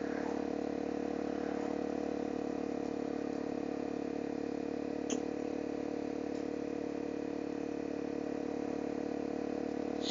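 Honda CRF 250L's single-cylinder four-stroke engine running at a steady cruise, its even hum picked up through a helmet intercom microphone. A brief tick about five seconds in.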